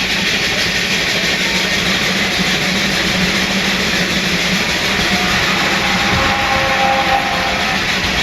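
Nichols and Shepard 20-75 steam traction engine driving a sawmill by belt: steady, dense running noise of the engine and mill, with a faint pitched ring joining in during the last few seconds.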